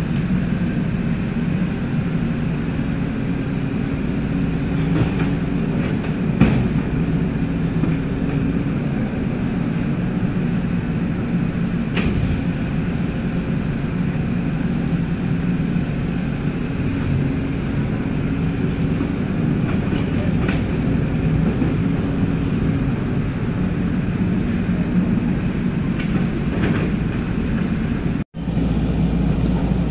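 Hydraulic excavator's diesel engine running steadily under working load while it digs, with a few sharp knocks from the bucket and machine.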